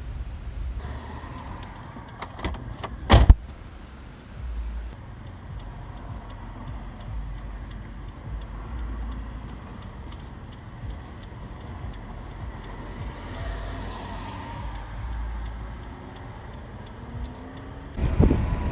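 A car driving, a steady low engine and road rumble, with a sharp loud knock about three seconds in.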